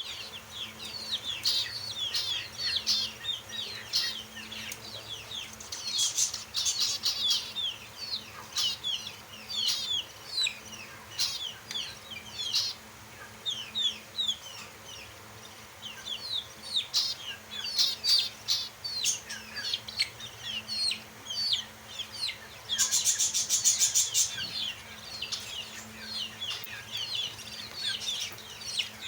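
A flock of lovebirds chattering, with many short, high chirps overlapping. About 23 seconds in, a burst of rapid clicking lasts for about a second and a half.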